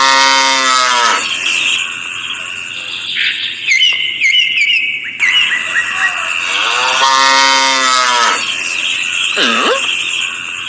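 A cow mooing twice, each moo a long call that rises and then falls in pitch, with high bird-like chirps between the moos. The sequence repeats evenly, like a looped farm-ambience track.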